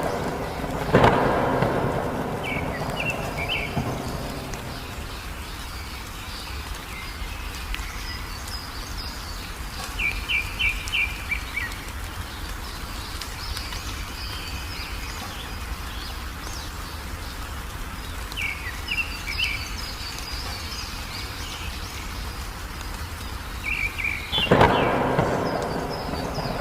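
Steady rain with two loud thunderclaps that rumble away, one about a second in and one near the end. Wild birds call over the rain, with short rapid trills of a few quick notes repeated several times and thinner high chirps.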